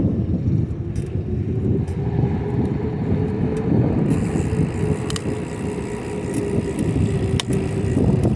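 Bicycle being ridden on pavement: wind buffeting the microphone and tyre rumble, with scattered clicks. A steady hum comes in about a second in and stops near the end.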